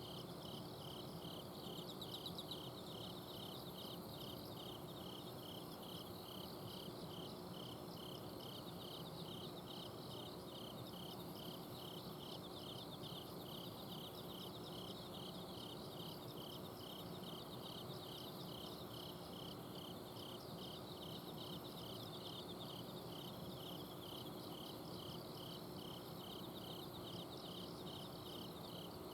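Autumn insects singing at night: one cricket chirps steadily at about two chirps a second over a finer, higher trill from other insects. A steady low hum, the air conditioner's outdoor unit, runs underneath.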